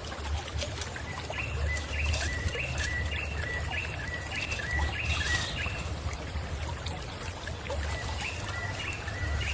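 A bird giving a run of short, repeated chirps, about three a second, each hooking upward. The chirps pause about halfway through and start again near the end, over a steady low rumble.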